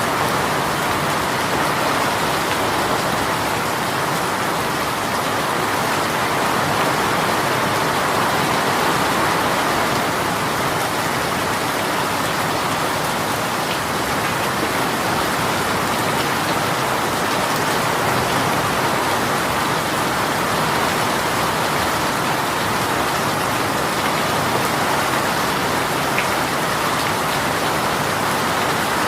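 Heavy rain shower falling steadily: a dense, even hiss of rain with no let-up.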